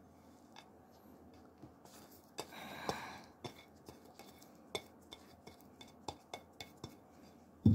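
Porcelain plate clinking and tapping on the rim of a mixing bowl as chopped onion is scraped off it by hand. A short scraping rustle comes about three seconds in, and a louder knock comes near the end.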